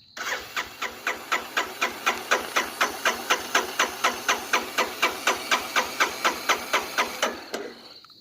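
Electric starter cranking the single-cylinder engine of a 1985 Honda Big Red 250ES three-wheeler, chugging evenly at about four to five compression strokes a second for roughly eight seconds without firing: a hard start after long sitting.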